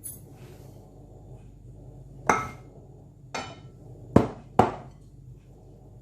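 Four sharp knocks of a kitchen utensil against a hard dish, each ringing briefly; the last two come close together.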